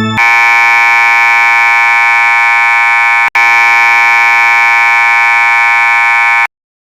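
A loud, steady electronic buzzing tone held for about six seconds, with a split-second break in the middle, then cut off abruptly.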